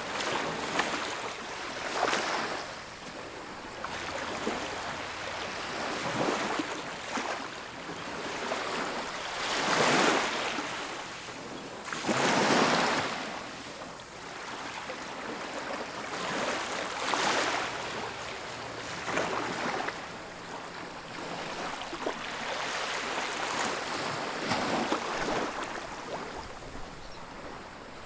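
Ocean waves breaking and washing on a beach, a steady rush of surf with a fresh surge every few seconds, the biggest about ten and twelve seconds in.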